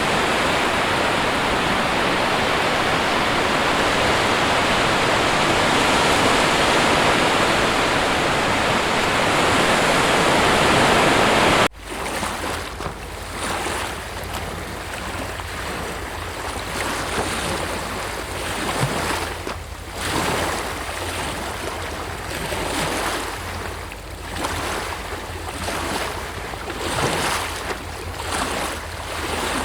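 A steady, dense rush of water for the first twelve seconds or so. It cuts off abruptly, and ocean surf follows, washing in and out in uneven swells with some wind.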